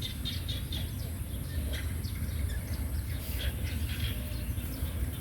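Outdoor ambience: many short bird chirps over a steady low rumble.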